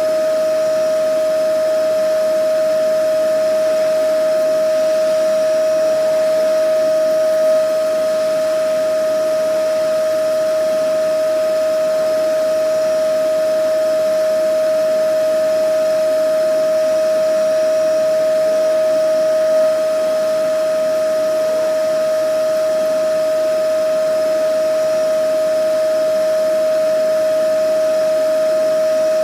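Vacuum cleaner motor running steadily: a constant high whine over an even rush of air.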